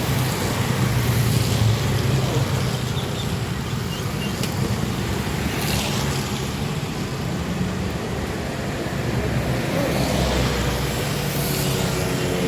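Steady road traffic noise: vehicle engines and tyres passing, with a low engine hum that swells and fades.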